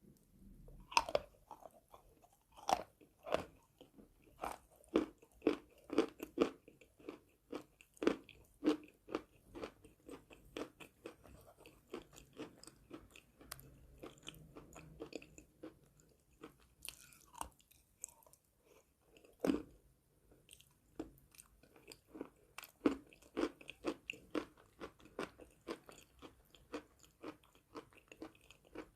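A mouthful of chalk crunching as it is bitten and chewed close to the microphone, in quick separate crunches with a few louder bites.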